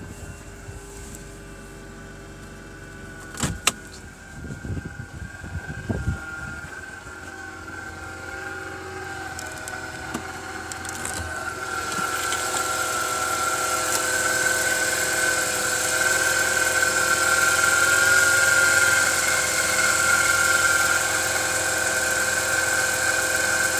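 Mercedes M112K supercharged V6 running at a cold idle in deep frost, with a couple of sharp clicks and thumps a few seconds in. About halfway through, a high steady whine comes up and grows louder over the engine's sound.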